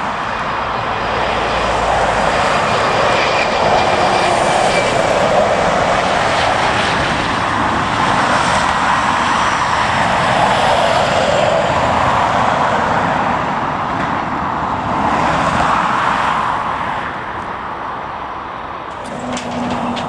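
Jet airliner's engines, loud and steady as the aircraft passes close by, with a slow wavering, sweeping quality; the noise fades away over the last few seconds.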